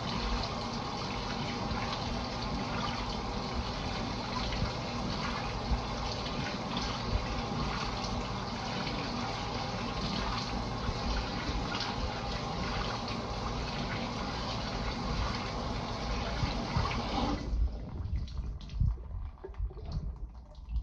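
Fisher & Paykel IW812 top-loading washing machine filling with water, a steady rush of inflow that stops abruptly about three seconds before the end, leaving quieter irregular splashing.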